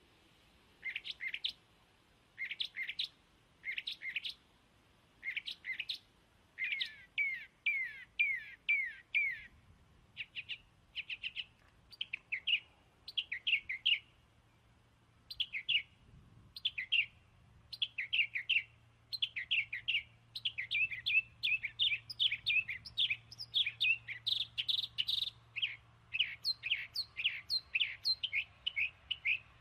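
Small birds chirping: quick, high chirps that each sweep downward, coming in clusters several times a second and growing busier in the second half.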